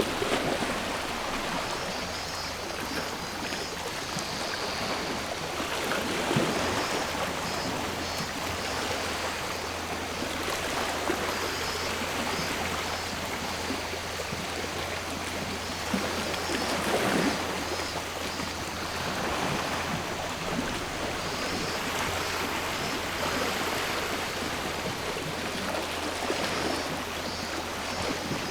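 Sea waves washing ashore in repeated swells every few seconds, with cicadas buzzing in a high, pulsing band behind them.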